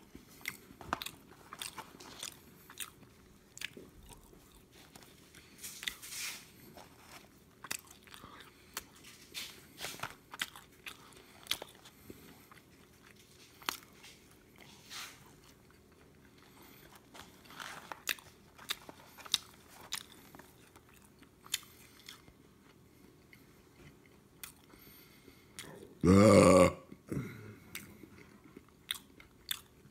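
A person chewing McDonald's french fries close to the microphone: many short crunching and smacking sounds throughout. One loud burp comes near the end.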